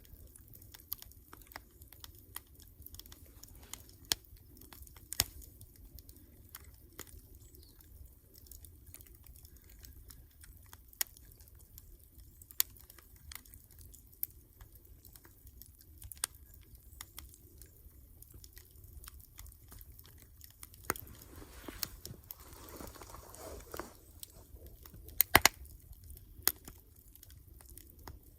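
Wood campfire crackling: irregular sharp pops and snaps over a low steady rumble of flames, with a brief swell of rushing noise a little over twenty seconds in and a quick cluster of the loudest pops just after.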